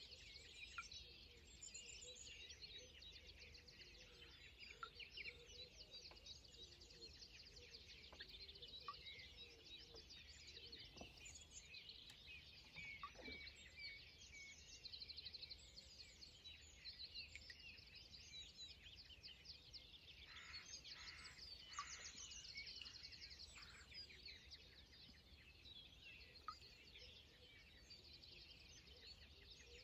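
Faint birdsong: several small birds chirping and singing at once, over a low, steady outdoor rumble.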